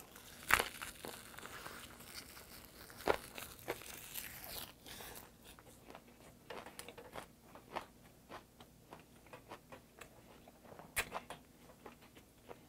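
A person biting into and chewing a wrap of dried laver (gim) with rice and Dolsan mustard-leaf kimchi: a crisp bite about half a second in and another near three seconds, then softer crunching and wet chewing clicks, with one more crisp crunch near the end.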